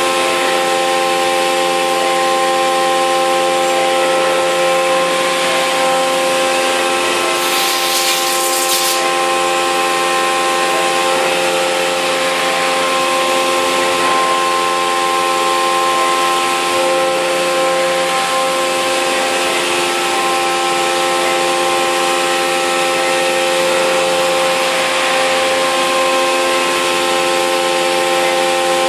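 CNC mill trochoidal-milling 6082 aluminium with a 3-flute end mill at 8,000 rpm, 20 mm deep: a steady cutting whine made of several held tones. A brief hiss joins it about seven and a half seconds in and lasts about a second and a half.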